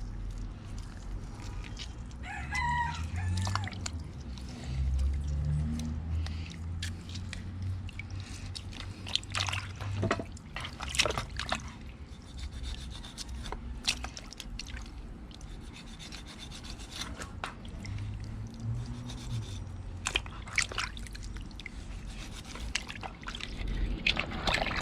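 Hands rubbing and handling pieces of cleaned fish, with scattered clicks and knocks, over a steady low rumble.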